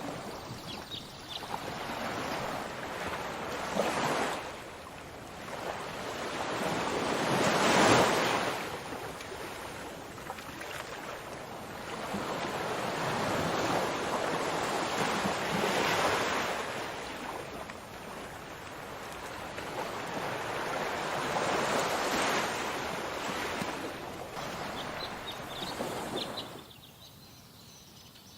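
Sea waves washing onto a shore, the surf swelling and falling away every few seconds. The surf fades out sharply near the end, leaving a few short high chirps.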